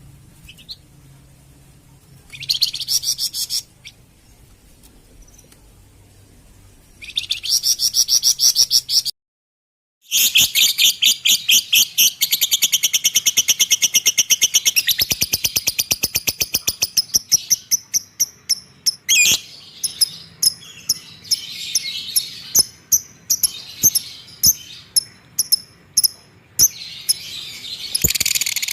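A cage bird singing in high, rapid chirps: two short bursts, a brief dropout, then a long fast run of repeated notes that slows into separate chirps toward the end.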